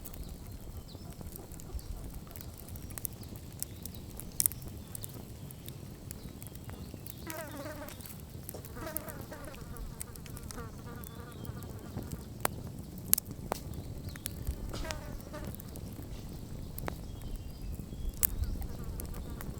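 Wood campfire burning down, crackling steadily over a low rumble of flame, with a few sharp, louder pops. A faint wavering pitched sound comes and goes three times.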